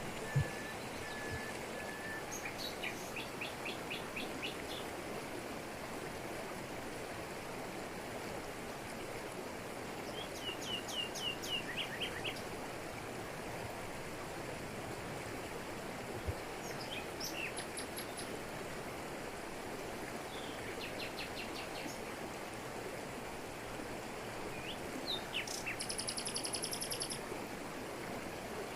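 Steady rush of a jungle waterfall with forest birds calling over it in short series of quick repeated notes, several times, the highest and loudest series near the end.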